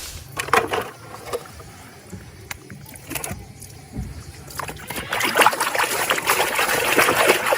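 Water sloshing and splashing as a muddy plastic toy animal is washed, with scattered splashes at first and a steady trickle and splatter of water from about five seconds in.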